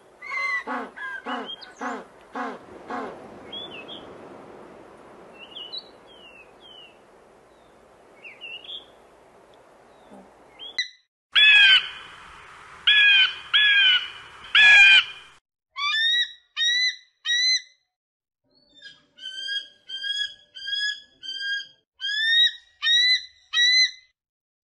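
Calls of several different birds, one clip after another, split by sudden silent gaps. A quick run of calls opens it, faint scattered chirps follow, then four loud harsh squawks about halfway, and two runs of short repeated calls near the end.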